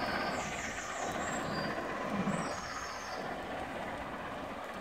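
A steam-hauled train of coaches rolling away along the track, a steady rumble that slowly fades, with a brief low swell about two seconds in.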